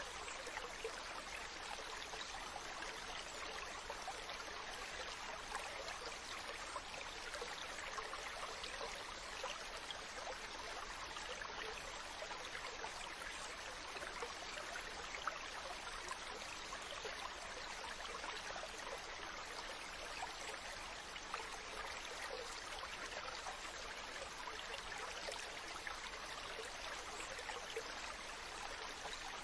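Ocean water ambience: a steady, even hiss with a fine crackle, with no separate wave surges.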